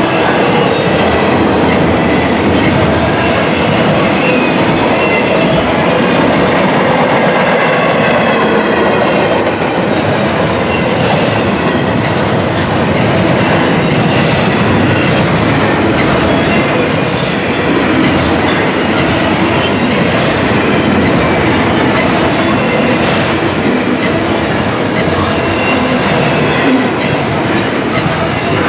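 Loaded double-stack intermodal container cars rolling past at close range, a loud steady rumble of steel wheels on rail with clacking over the joints and a faint high squeal from the wheels at times.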